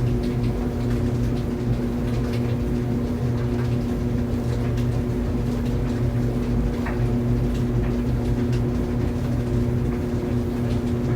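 Clothes dryer running steadily: a constant low motor hum with drum rumble, and a few faint light ticks scattered through.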